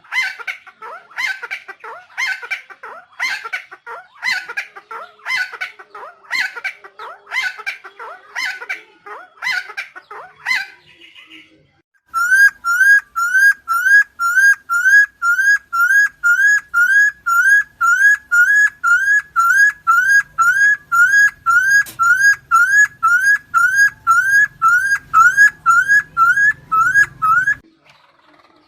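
Helmeted friarbird giving a run of coarse, repeated calls, about two a second, for about ten seconds. After a short pause comes a long, very regular series of clean rising whistles, about two a second, that stops shortly before the end.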